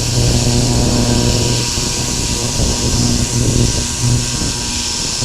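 A power tool or shop machine running steadily, with a loud hiss and a low hum that swells and fades every second or so.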